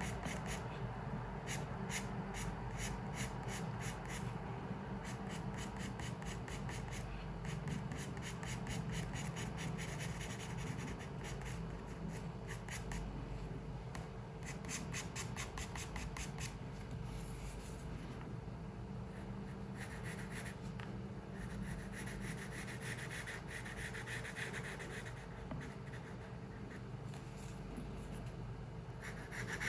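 Pencil drawing on paper. Quick, short strokes come in rapid succession through the first half, as in hatching or shading, then give way to fewer, longer strokes.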